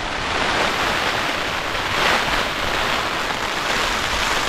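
Heavy rain pelting down on a tent, heard from inside: a dense, steady hiss.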